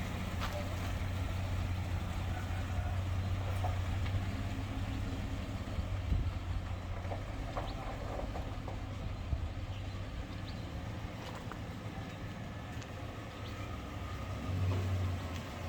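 Motor vehicle engine running with a steady low hum; the hum eases off about six seconds in and swells briefly again near the end.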